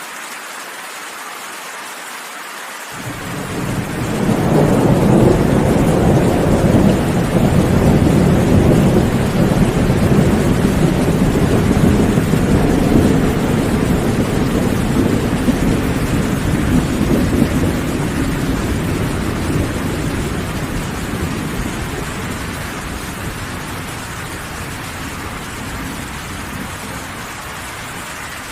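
Steady rain with a long roll of thunder: a low rumble comes in about three seconds in, builds quickly, holds for over ten seconds and slowly dies away under the rain.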